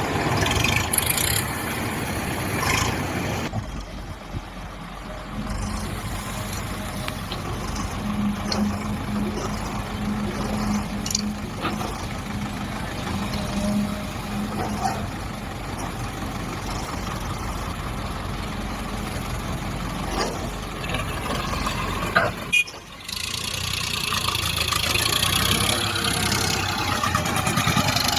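Diesel tractor engines running under load, in a few clips cut one after another, with abrupt changes in the sound about three and a half seconds in and again near the end.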